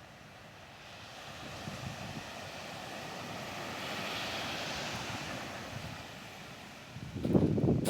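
Typhoon wind on the coast: a rushing hiss that swells for several seconds and then dies away. Near the end, heavy gusts buffet the microphone.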